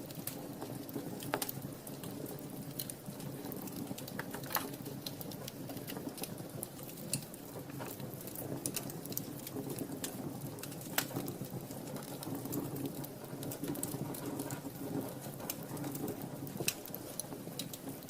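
Wood fire burning in a fireplace: a steady low rush of flame with scattered sharp crackles and pops, one standing out about eleven seconds in.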